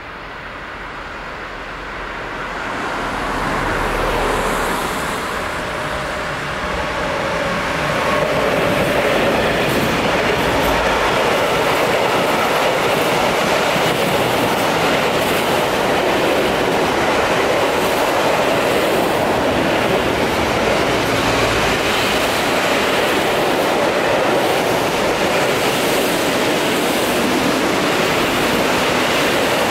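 Freight train passing close below: its noise builds over the first few seconds as the head of the train arrives, then settles into a steady rolling rumble of loaded container and tank-container wagons going by.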